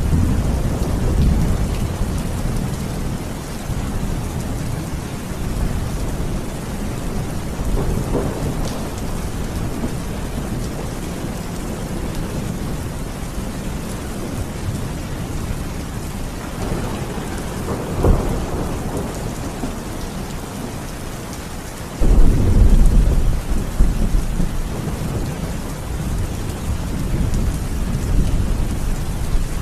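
Steady heavy rain with thunder. A low rumble rolls in right at the start, a short sharp crack comes about 18 seconds in, and a sudden loud clap about 22 seconds in rumbles on for several seconds.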